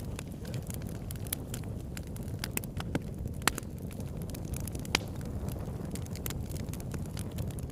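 Campfire burning: a steady low rumble of flames with frequent irregular sharp crackles and pops, two louder pops about three and a half and five seconds in.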